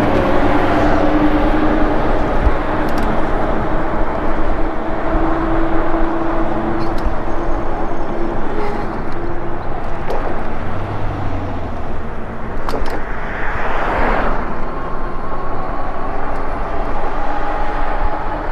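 Steady wind and road noise from riding an electric bike, with a steady hum running underneath. A vehicle passes about fourteen seconds in, swelling and fading.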